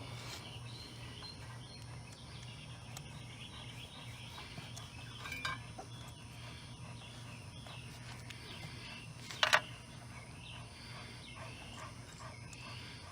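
Faint chirping calls over a steady low hum, with a sharp metallic clink about nine and a half seconds in.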